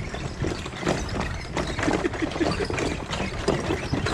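Footsteps on a forest trail: irregular scuffs and crunches, with a steady low rumble of wind and handling on the hand-held microphone.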